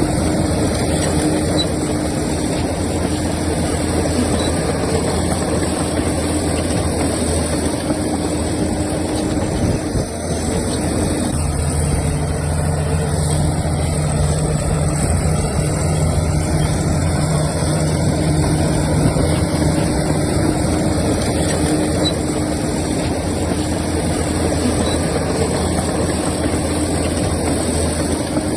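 Heavy-equipment diesel engine running steadily with a low hum. It dips briefly about ten seconds in, then carries on with a changed, stronger tone.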